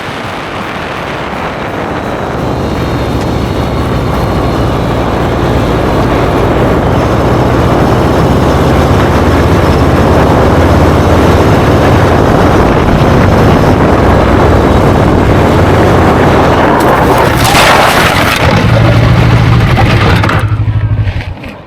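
Motorcycle riding on the road: the engine runs steadily under heavy wind rush on the microphone, growing louder over the first few seconds, with a brief hissing surge near the end before the sound cuts off abruptly.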